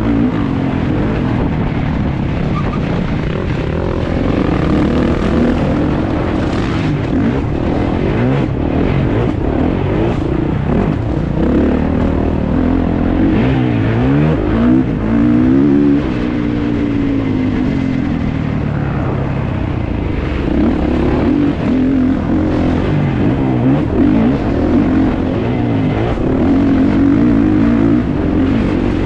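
Kawasaki KX450 four-stroke single-cylinder motocross engine at racing speed, revving up and falling back again and again as the rider works the throttle and gears, with a quick run of rises and falls about halfway through.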